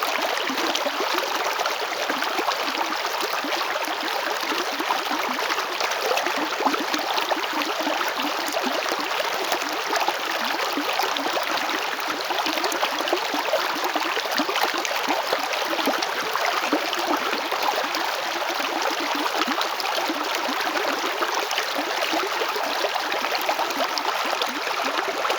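River water flowing, a steady rush with constant small splashing and babbling.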